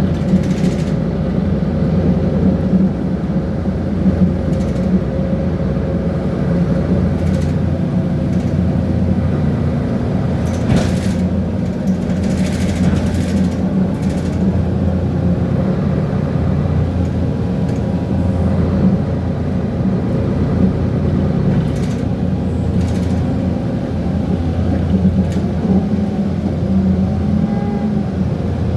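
Mercedes-Benz Conecto G articulated bus's OM457 diesel engine running steadily under way, with the whir of its cooling fan. Brief rattles of loose parts come through a few times, around the middle and later on.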